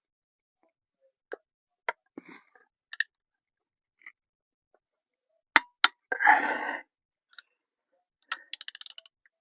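Metal hand tools clicking and clinking while engine bolts are being torqued. A little past halfway come two sharp clicks and a short clattering rattle, and near the end a quick run of ratchet ticks.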